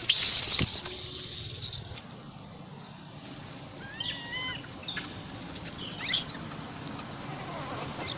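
Monkeys giving short high-pitched squeals, one about four seconds in and another about six seconds in, after a sudden loud noisy burst at the start.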